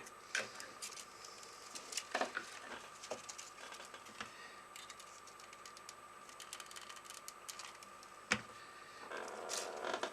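Light clicks and taps of small parts being handled and worked on a bench, with one sharper click about eight seconds in and a brief rustle near the end, over a faint steady high hum.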